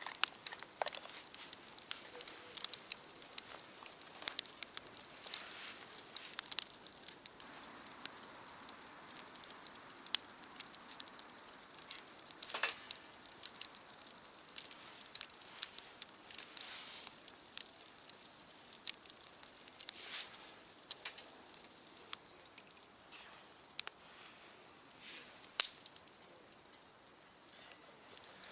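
Wood fire crackling, with frequent irregular sharp pops over a faint steady hiss.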